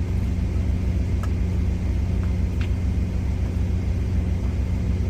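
Idling truck engine: a steady low rumbling hum that holds unchanged throughout, with a couple of faint ticks.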